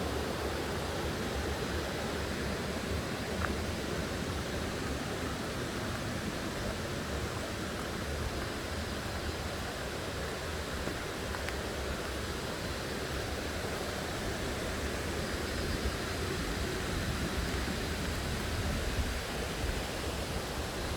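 Waterfall water rushing in a steady, even roar of noise.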